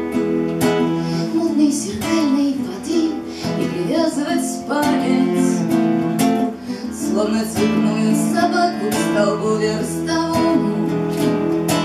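Live music: an acoustic guitar strumming chords, with a wavering melody line above it.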